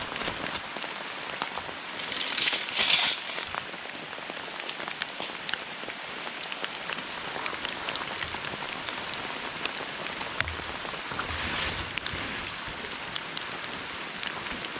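Steady rain falling, a dense patter of drops with many small sharp taps, with two brief louder rushes of noise, about two seconds in and again near eleven seconds.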